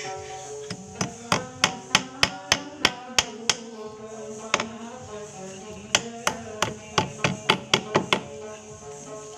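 Two runs of quick, sharp hammer blows, about three a second, each run lasting a couple of seconds with a pause between, over background music.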